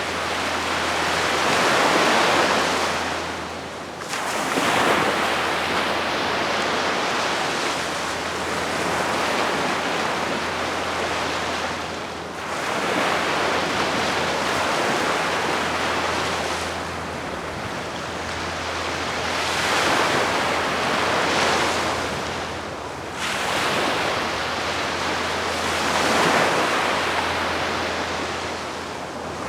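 Gentle sea waves breaking and washing up the beach, each wave swelling and fading every few seconds.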